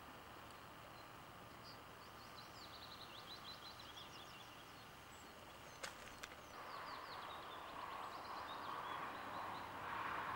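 A songbird singing in long runs of quick, falling notes over a steady outdoor hiss. Two sharp clicks come about six seconds in, and a rushing noise grows louder through the second half.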